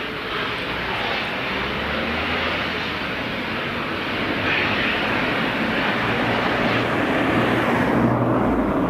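A train passing: a steady locomotive drone with a low engine hum, growing louder toward the end.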